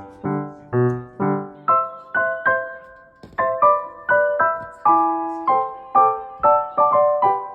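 Background piano music: a gentle melody of struck notes and chords, about two or three a second, each fading after it is struck.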